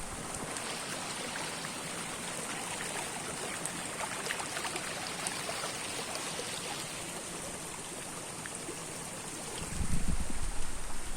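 Flowing water running steadily, a continuous rushing hiss. Near the end a low rumble of wind on the microphone comes in over it.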